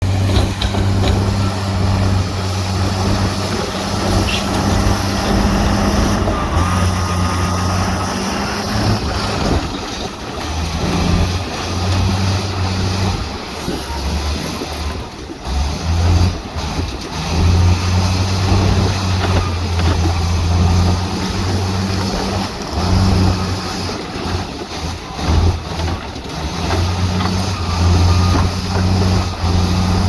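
Heavy diesel engines of bulldozers and dump trucks running under load, a steady low engine note that dips briefly now and then, with scattered clanks and knocks.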